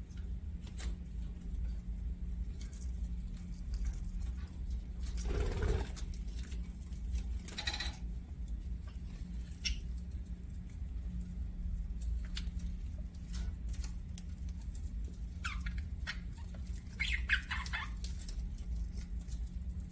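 Budgerigars giving scattered chirps and short calls: a harsh call about five seconds in and a quick run of chirps near the end, over a steady low hum.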